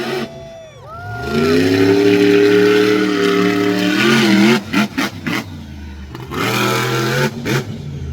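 Monster truck engine revving hard. Its pitch drops as the throttle lifts, then climbs and holds high for a few seconds. About four seconds in it dips and cuts in and out, then holds steady again near the end.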